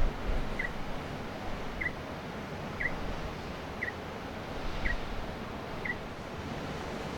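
A bird giving a short, repeated chirp about once a second, six times, over a steady noise of wind and surf.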